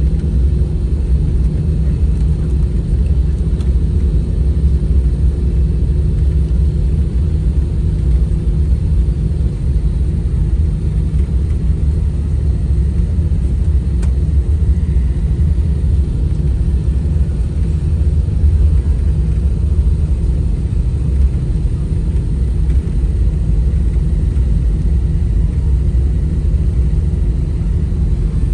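Steady low rumble and hum inside an airliner cabin, the even ventilation and machinery noise of a parked jet with no change throughout.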